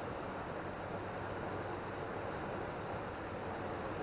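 Steady rush of a high, fast-flowing river running close by.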